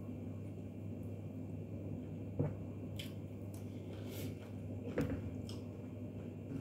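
Mouth sounds of someone chewing fried rice eaten by hand, with soft wet crackles and two short knocks about two and a half and five seconds in, over a steady low hum.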